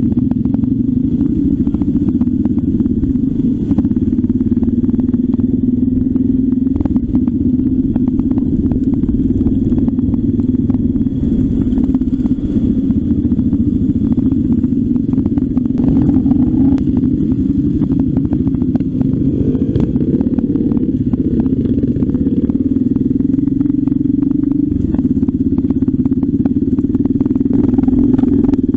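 Trail motorcycle engine running steadily at an even pace, with frequent small clicks and rattles over it.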